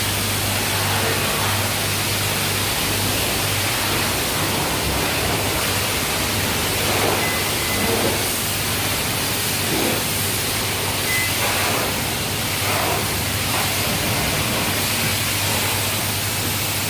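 Self-service car wash equipment running: a steady rushing noise over a low motor hum, with a few faint short beeps.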